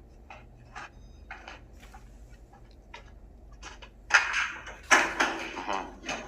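Steel security door being worked by hand: faint clicks of the handle and lock, then two loud metallic clanks about four and five seconds in as the heavy door shuts and latches, each ringing on briefly.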